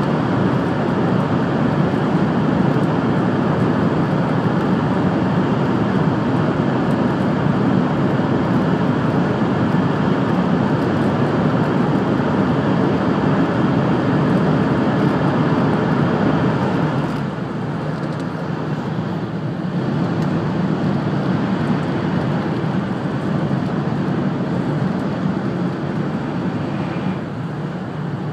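Running noise of a 700 series Rail Star Shinkansen train at speed, heard inside the passenger cabin: a steady rumble and rush. It eases somewhat about 17 seconds in.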